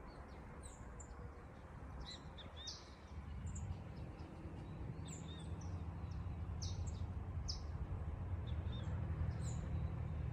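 Outdoor evening ambience: many small birds chirping in short, scattered high calls over a steady low rumble.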